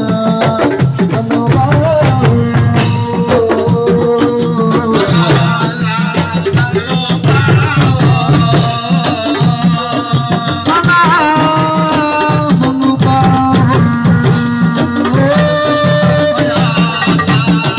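Live assiko band music: fast, dense hand-drum percussion, with held melodic notes and slides over it.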